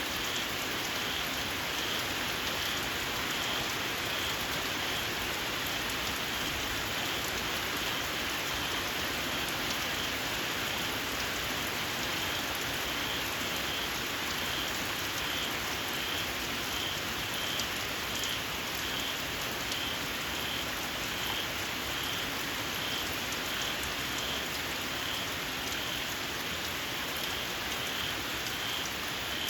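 Steady rain falling on fields. Over it, a small frog (khiat jana) gives a short, shrill call that repeats about once a second.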